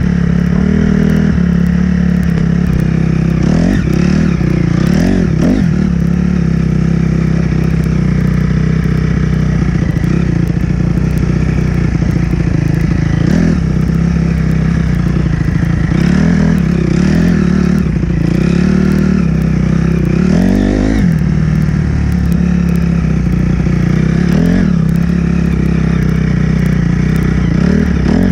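Honda CRF dirt bike's four-stroke single-cylinder engine running under load as it is ridden, its pitch rising and falling several times as the throttle is opened and eased off.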